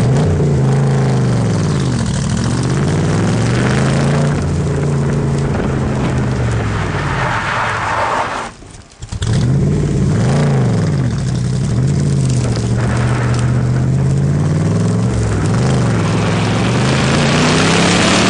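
Open-top roadster's engine, heard from the cockpit, revving up and falling back again and again as the car is driven hard through an autocross cone course. About halfway through the sound briefly almost cuts out for half a second.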